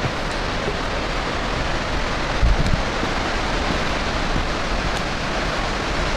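Waterfall's rushing water, a steady dense hiss, with a brief low thump about two and a half seconds in.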